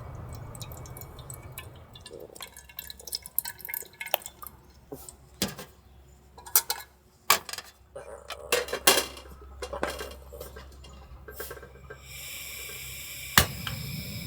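Camp dishes and utensils being handled, with a run of irregular clinks and knocks, followed near the end by a steady hiss for about two seconds that is cut by one sharp knock.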